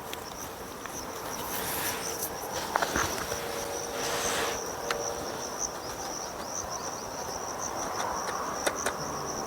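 Insects chirring steadily in a high-pitched, unbroken trill, with a few light clicks and brief rustling about two and four seconds in.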